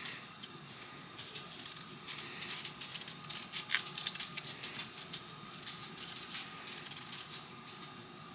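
Kitchen knife peeling the skin off a raw potato by hand: a run of short, irregular scraping strokes, several a second.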